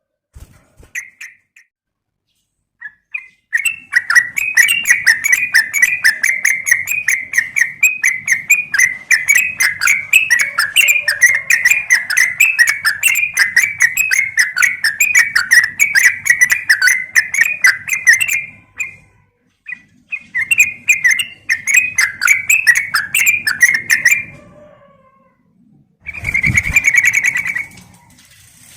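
Yellow-vented bulbul (trucukan) calling in bouts of rapid chattering notes. The first bout is long, starting a few seconds in and running about fifteen seconds, followed by two shorter bouts. The last bout comes with a low thump.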